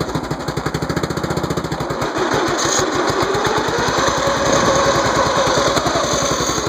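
Briggs & Stratton 13.5 hp Vanguard engine on a garden tractor running with an even exhaust pulse. About two seconds in its revs climb and it runs faster and louder. It surges, running choppy and then speeding up, and the owner doesn't know why.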